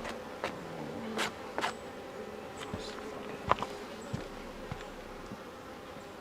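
Honeybees buzzing in a steady drone around an opened hive, with several sharp knocks from the hive being handled, the loudest about halfway through.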